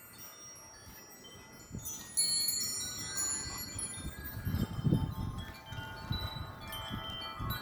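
Several wind chimes ringing and clanging in gusty wind. They get busier and louder about two seconds in, and a low rumble of wind surges with them around the middle.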